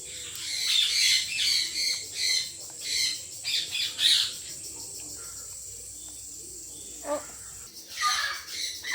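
Birds squawking in a run of short, rapid calls for the first four seconds, then again near the end, over a steady high-pitched hum.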